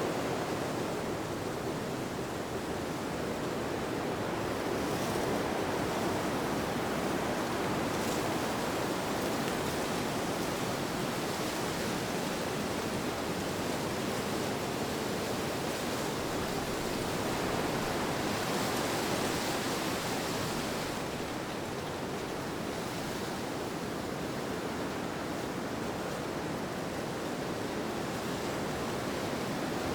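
Steady rushing wind ambience, a continuous even noise that swells and eases gently over several seconds.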